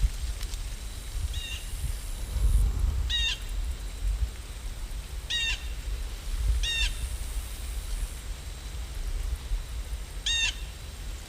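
A bird outdoors giving five short calls, spaced a second or two apart, over a steady low rumble.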